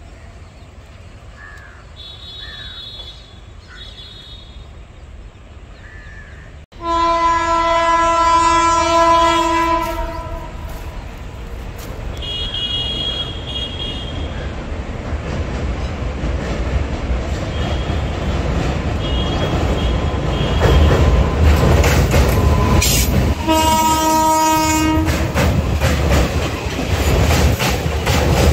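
WAP-7 electric locomotive sounding its horn: a long loud blast about a third of the way in, a fainter short one a little later, and another loud blast near the end. In between, the passenger train rolls slowly over a steel girder bridge, and the rumble and clickety-clack of the coach wheels grow steadily louder as the coaches pass close by.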